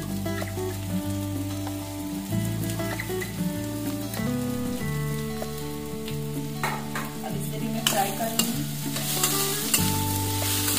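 Sliced onions and freshly added diced potatoes sizzling in oil in a wok, with a steel spatula scraping and stirring. The stirring grows busier in the last few seconds.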